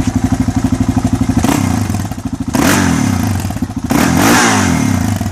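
Yamaha Raptor 660R quad's single-cylinder four-stroke engine idling with an even, pulsing beat, then revved up and let fall back three times, the second and third revs the biggest, before settling back to idle.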